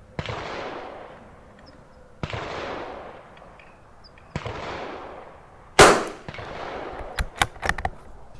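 .22 LR rimfire rifle shots on a range: three echoing shots about two seconds apart, then a much louder shot near six seconds in. A quick run of sharp clicks follows in the last second or so.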